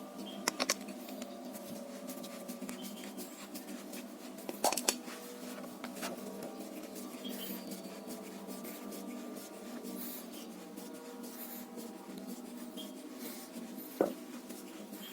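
Steady rubbing and scraping from hand work on the drill's parts, with scattered small clicks and a few sharper knocks: one about half a second in, a pair near five seconds, and one near the end.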